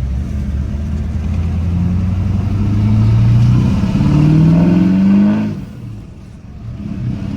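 2004 LB7 Duramax 6.6-litre V8 turbo-diesel through a 5-inch exhaust, pulling hard under acceleration with its pitch climbing. The pitch drops back about halfway through as the ZF6 manual gearbox shifts up, then climbs again. The driver lets off about five and a half seconds in.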